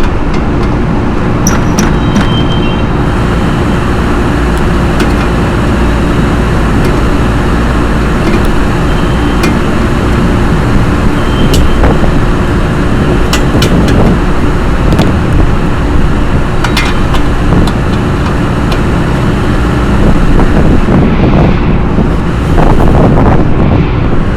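Steady hum and rush of rooftop fan machinery running, with a few sharp metallic clicks scattered through.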